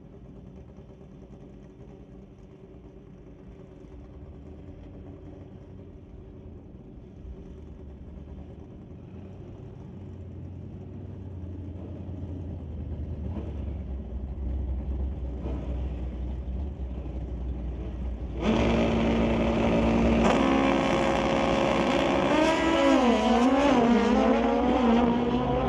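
Two drag-racing motorcycles, a Suzuki and a Kawasaki, idling and staging with a low, steady engine rumble that slowly grows. About 18 seconds in they launch at full throttle: a sudden loud engine howl whose pitch climbs, dips at the gear changes and climbs again.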